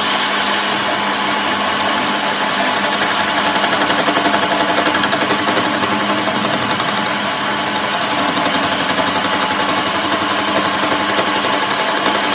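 Workshop machinery running steadily with a fast, even rattle.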